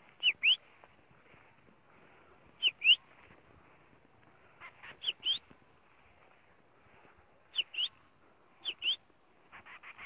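A bird calling in short, sharp whistled chirps that come in pairs, five pairs a couple of seconds apart, each note dipping and then rising.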